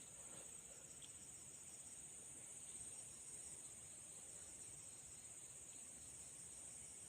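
Faint, steady high-pitched chirring of an insect chorus, with little else.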